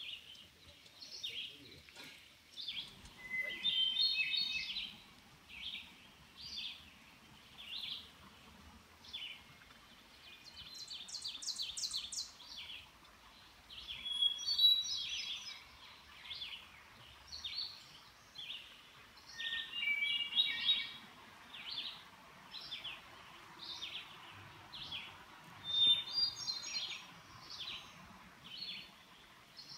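Songbirds singing: short chirps repeated steadily, with fuller song phrases every five or six seconds, over a faint steady hiss.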